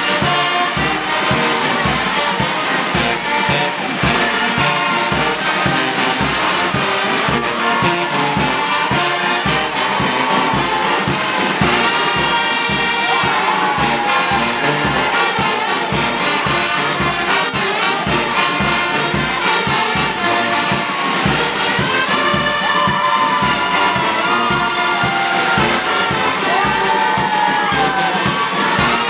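Brass band music with a steady drum beat running under brass melody lines.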